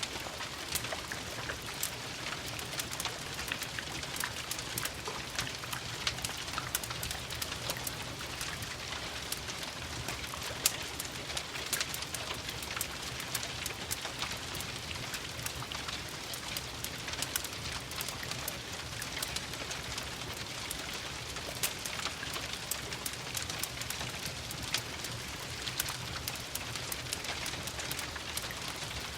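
Steady rain mixed with a wood fire crackling in a fireplace: an even hiss dotted with many small sharp crackles and ticks, and one louder pop about ten and a half seconds in.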